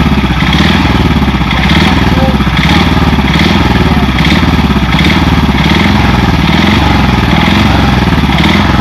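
Motorcycle engine running loud and steady, its note swelling and easing in a regular rhythm about once a second.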